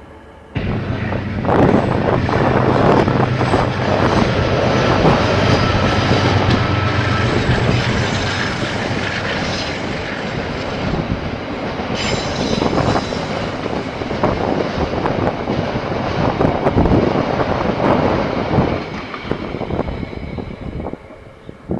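Diesel-hauled freight train passing close by. The locomotive's engine is heard for the first several seconds, then wagons roll past with wheels clattering over rail joints and squealing. The sound starts abruptly and fades near the end.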